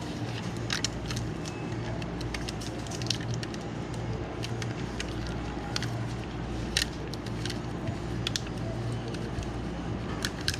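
Irregular small sharp clicks and taps, as of tools and parts being handled on a workbench, over a steady low hum.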